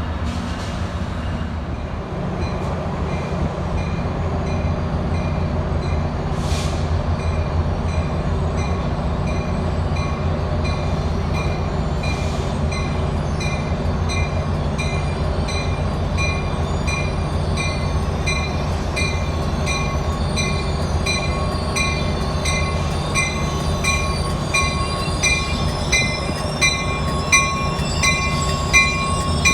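A train at the platform: a steady low engine hum under a bell struck about one and a half times a second. Near the end thin high wheel squeals come in.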